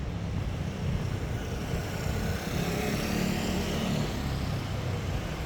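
City street traffic: a motor vehicle passing, its sound swelling through the middle, over a steady low rumble.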